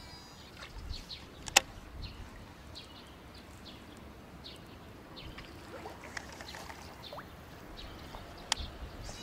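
Small birds chirping in short, scattered calls, with a sharp click about a second and a half in and another near the end.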